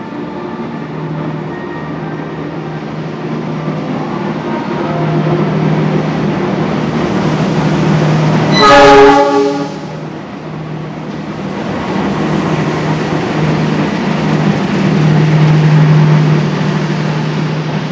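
A KAI diesel locomotive hauling a passenger train pulls into the station, its engine hum growing louder as it approaches. About halfway through it sounds its horn once for about a second. Its coaches then roll past with a rising rumble of wheels on rail.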